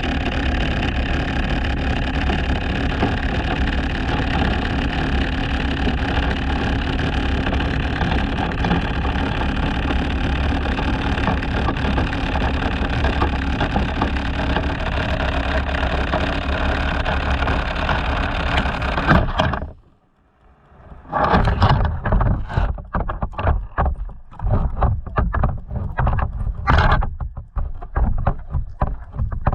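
Motorboat under way: a steady engine and water-and-wind rush that cuts off abruptly about twenty seconds in, followed by a moment of near silence and then irregular knocks and bumps.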